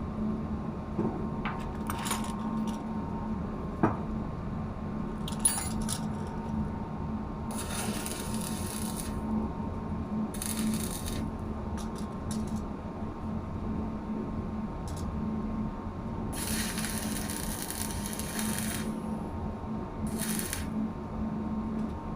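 Steady low machinery hum with scattered sharp metallic clicks and several short bursts of hiss, the longest about two seconds long.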